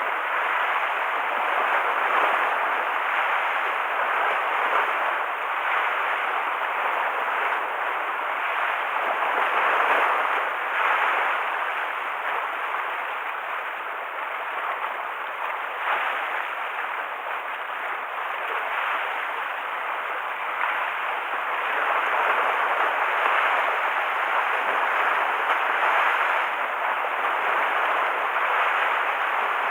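Rough sea waves washing and splashing continuously, swelling and easing every few seconds: choppy water stirred up by an approaching typhoon.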